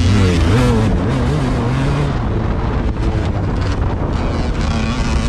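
A vehicle engine running, its pitch wavering up and down, under wind buffeting the microphone.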